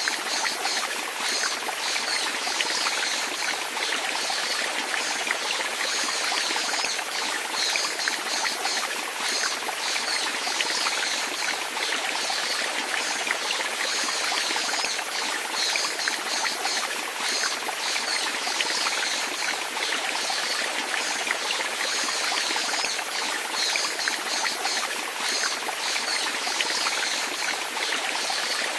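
Flowing water running steadily, an even, continuous rush and trickle with no pauses.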